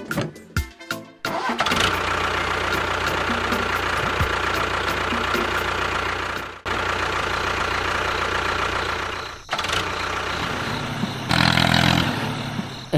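A few quick clicks, then an engine running steadily. It cuts off abruptly twice and grows louder for a moment near the end.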